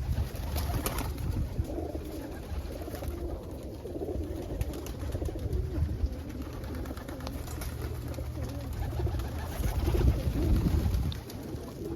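Domestic pigeons cooing, several low warbling coos overlapping without a break, a little louder near the end. A low rumble runs underneath.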